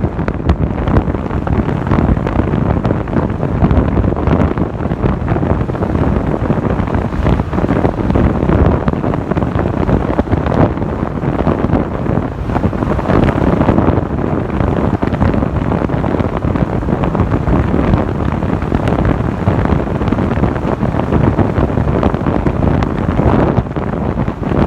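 Wind rushing over the microphone of a moving motorcycle: a loud, steady, rumbling noise that does not let up.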